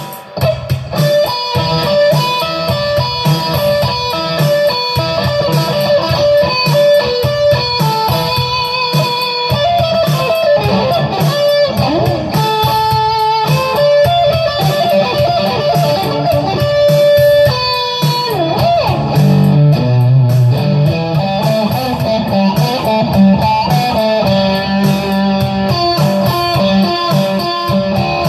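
Electric guitar playing improvised lead lines over a backing part, with fast scale runs and bent notes.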